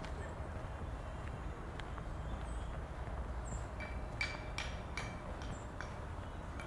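Outdoor neighbourhood ambience: a steady low rumble, a few faint high chirps in the middle, and a quick run of sharp clicks starting about four seconds in.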